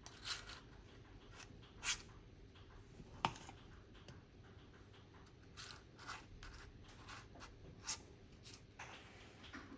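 Objects being handled: scattered light rustles and clicks, with a few sharper clacks about a second apart early on and one more near the end.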